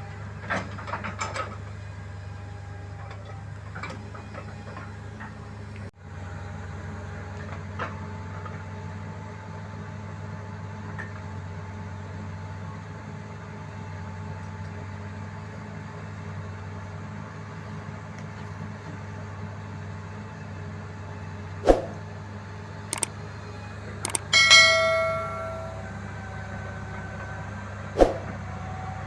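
An engine running steadily at idle, with a few sharp metallic knocks. Near the end comes one ringing clang of metal on metal.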